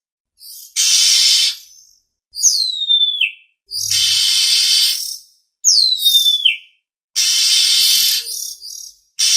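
Oriental magpie-robin (kacer) calling: three harsh, rasping calls alternate with two clear whistles that slide steeply down in pitch.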